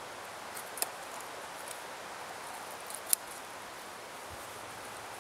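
Knife blade shaving curls off a wooden stick for tinder: soft scraping with a few short, sharp scrapes, the sharpest about three seconds in, over a steady hiss.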